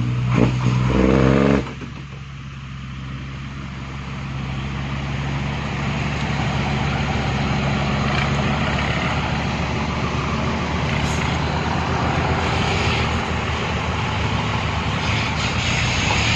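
Heavy diesel engine revving hard, straining to free a six-wheel truck stuck in sand. It drops off sharply under two seconds in, then builds up again and runs steadily loud.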